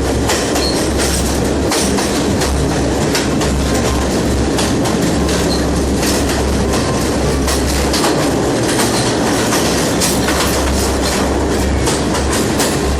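Passenger train running along the track: a steady loud rumble with wheels clicking over the rail joints.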